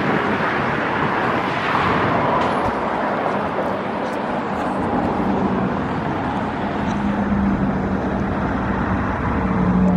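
Steady city traffic noise with a low engine hum that appears a few seconds in and grows stronger in the second half.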